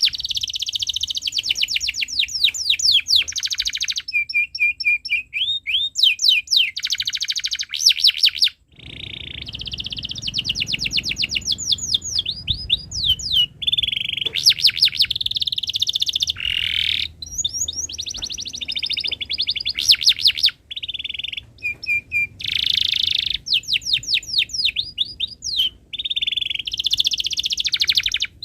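Domestic canary singing a long, continuous song of fast trills and rapid rising and falling chirps, broken by short pauses.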